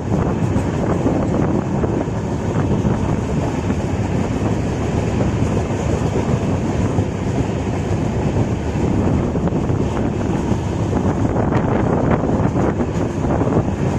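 Passenger train running at speed, heard from on board: a steady rumble of the coach's wheels on the rails, with a few sharp clicks near the end.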